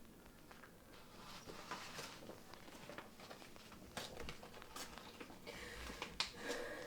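Quiet rustling and small clicks of things being handled, with a sharper knock about six seconds in.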